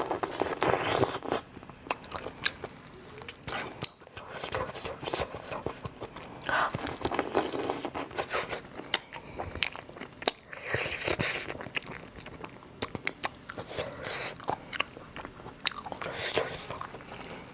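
Close-miked person chewing and biting food, with many short crunching and clicking mouth sounds.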